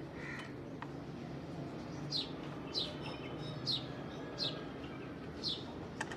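A bird calling over and over, each call a short high chirp sliding downward, starting about two seconds in and repeating every half second to a second, over a steady low hum.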